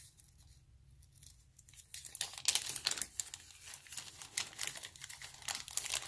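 Thin plastic packaging crinkling and tearing as it is opened, in quick irregular rustles that start about two seconds in, with only a few faint clicks before that.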